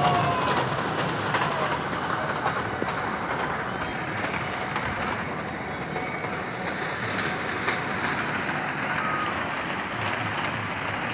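Miniature park joy train running along its narrow track: a steady running noise with occasional faint clicks.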